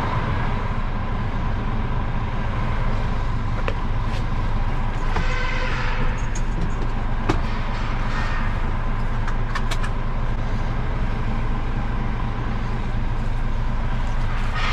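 Heavy lorry's diesel engine running steadily while driving, with a few short clicks and a brief hiss about five seconds in.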